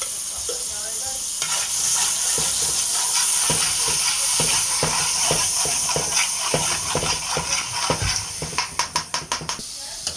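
Garlic, onion and green seasoning sizzling in hot oil in a pot, with a spoon knocking and scraping against the pot as they are stirred. There is a quick run of taps near the end.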